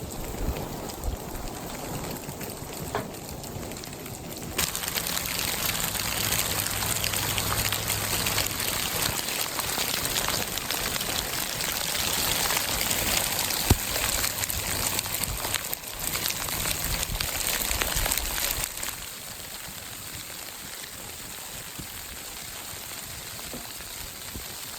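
Freezing rain and sleet pelting the tent fabric in a dense, steady patter, heavier from about four seconds in and easing again near the end.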